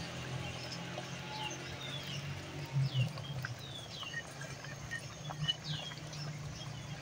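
Small birds chirping in short, falling calls, repeated many times over a steady low hum, with a few faint clicks.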